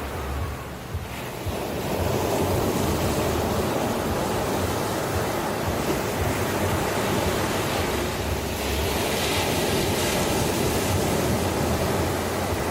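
Ocean surf washing in continuously, with a wave building about two seconds in and another hissing surge around nine seconds.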